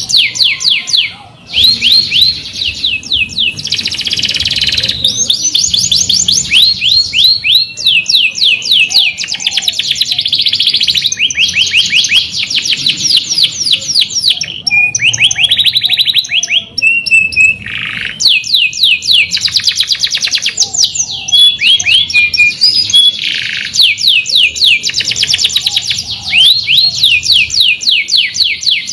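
Domestic canary singing a long, continuous song of fast trills and rolls, rapid runs of repeated notes with short whistled phrases, pausing briefly now and then.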